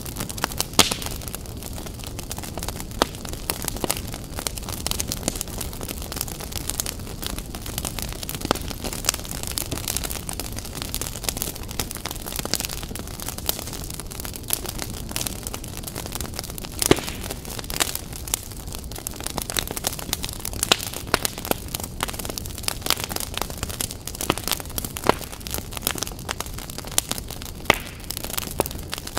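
Fire crackling: a steady low hiss and rumble with frequent irregular sharp pops and snaps.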